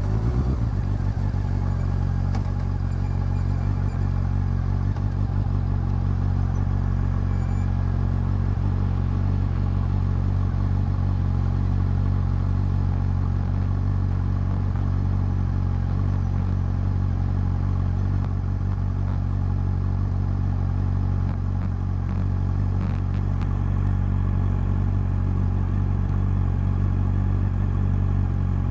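Honda CB400 Super Four's inline-four engine and exhaust running steadily at an even engine speed, its pitch barely changing after a brief drop right at the start.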